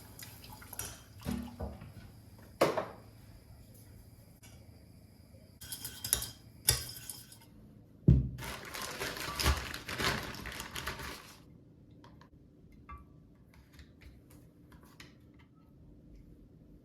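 Kitchen work: dishes, pans and utensils clinking and knocking, with a few sharp clinks and a stretch of hiss from about eight to eleven seconds in, then only small clicks.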